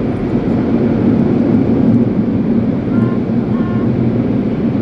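Automatic car wash machinery running: a loud, steady rushing noise.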